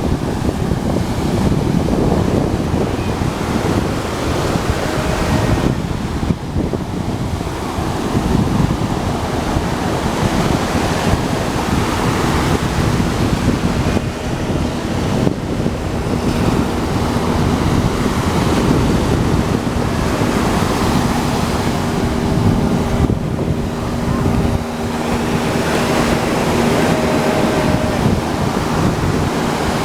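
Ocean surf washing steadily onto the beach, mixed with wind buffeting the microphone.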